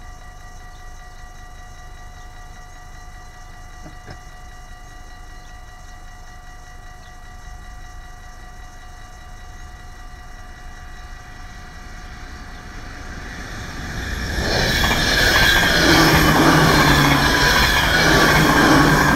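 Level-crossing warning bells ringing steadily, then a train approaching and passing close by, rising to a loud rush of wheels and motors for the last few seconds.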